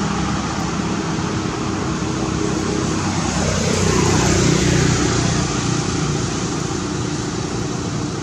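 Steady road-traffic noise, with a motor vehicle passing by about four seconds in: it swells louder as it goes past and its engine pitch falls.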